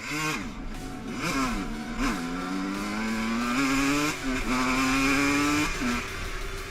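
Dirt bike engine revving in a few quick blips, then accelerating hard with the pitch climbing and dropping at two gear changes.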